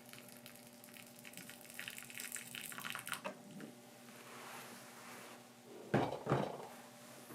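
Liquid splashing or pouring for about two seconds, then two dull knocks in quick succession near the end.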